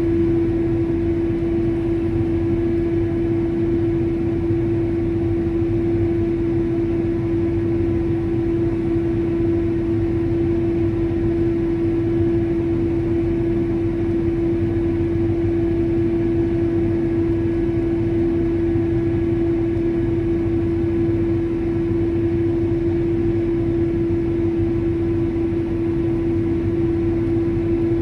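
Crop sprayer's engine and machinery running steadily at constant speed, with a strong steady hum over a low rumble.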